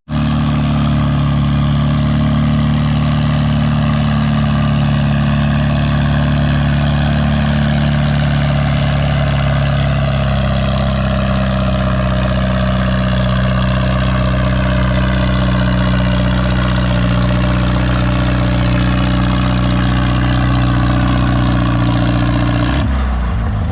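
Antique farm tractor engine running hard under load as it pulls the sled, one steady note that sags slightly in pitch through the pull. Near the end the note drops away as the tractor is stopped.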